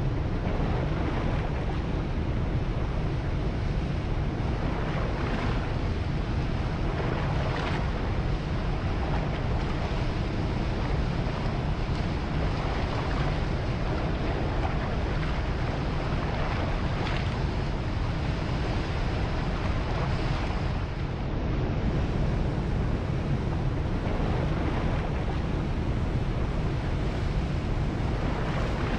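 Steady rush of surf and wind, with faint swells every few seconds as waves wash in, and a low wind rumble on the microphone.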